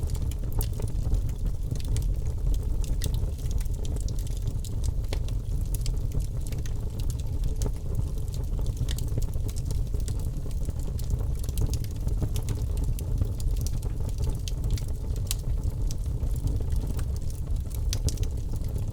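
Campfire burning with a steady low rumble of flames and frequent irregular crackles and pops of the burning wood.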